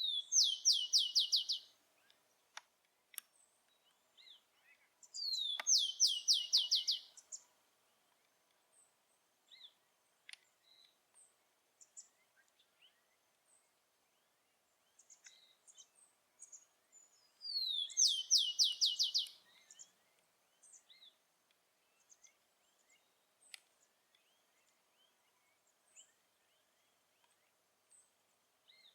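Rufous-collared sparrow (tico-tico) singing three songs: one at the start, one about five seconds in and one about seventeen seconds in. Each song is a falling whistle followed by a short run of quick, evenly repeated notes. Faint scattered chirps come between the songs.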